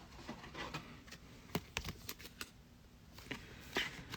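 Trading cards being handled while a pack is sorted: light, irregular clicks and scuffs of card edges and slabs of cardboard against each other, with a couple of sharper taps about one and a half and nearly four seconds in.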